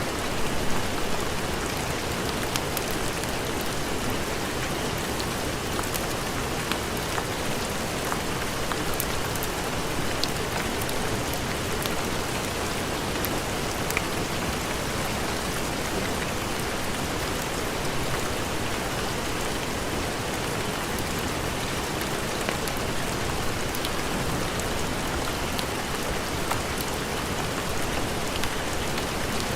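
Steady heavy rain, with scattered sharp ticks of drops through it.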